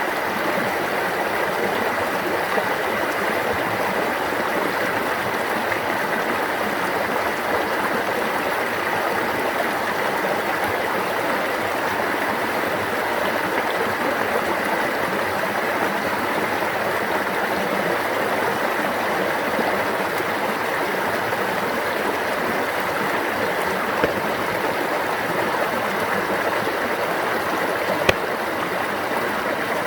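Water of a stream babbling steadily, with two short clicks in the second half, the second one near the end.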